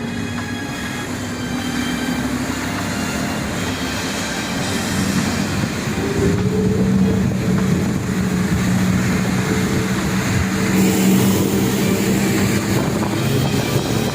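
A fire boat's engine running steadily. Its engine tone becomes louder and steadier about six seconds in.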